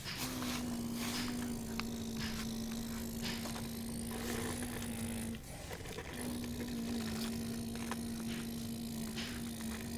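Motor of a radio-controlled model excavator whining at a steady pitch, cutting out for under a second about five and a half seconds in, with scattered clicks and rattles from the working machine.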